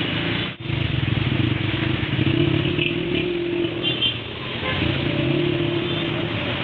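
Motor vehicle engine running steadily amid street traffic, with a brief dropout about half a second in.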